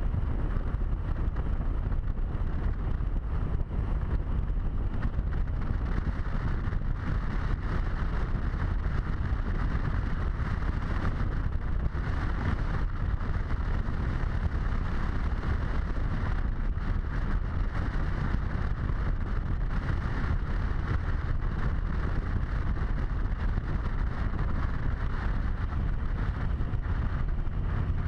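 Steady wind rush over a helmet-mounted camera on a moving Harley-Davidson motorcycle, with the bike's low engine rumble underneath.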